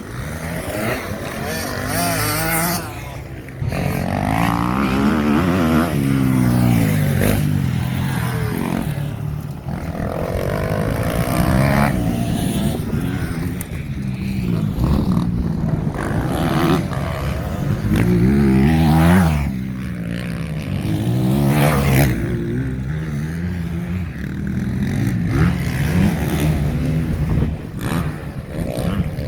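Several motocross bikes racing past one after another, their engines revving up and down in pitch as the riders accelerate, change gear and back off.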